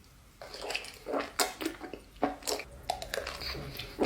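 Close-miked wet eating sounds of sauce-covered instant ramen noodles being slurped and chewed, with a few short sharp clicks between.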